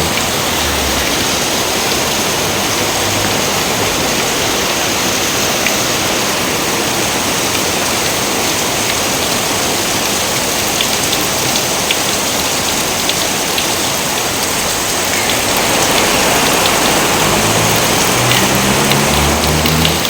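Steady rain: an even hiss of rain falling on surfaces, with scattered drop ticks. A few low, stepped tones sound at the start and again in the last few seconds.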